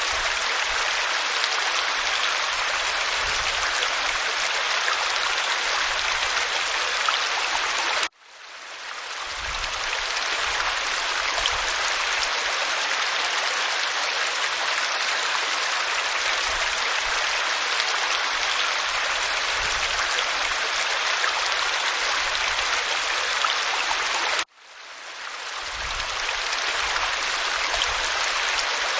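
Waterfall pouring over rock, a steady dense rushing of water. It cuts out suddenly twice, about eight seconds in and again near the end, and swells back each time: the join points of a looped recording.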